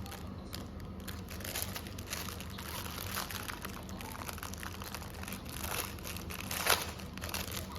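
Packaging crinkling and rustling as it is handled and unwrapped, with irregular crackles and one louder crackle near the end.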